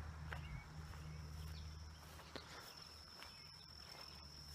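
Faint rural outdoor ambience: a steady high insect drone, a low hum underneath, and a few light ticks.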